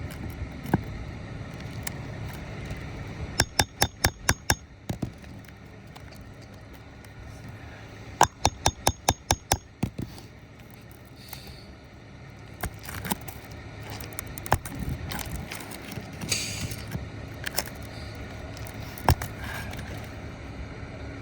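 Hammer tapping sharply in two quick runs of about seven strikes each, with a few single knocks between, working at a deeply driven roofing nail under an asphalt shingle to get it out.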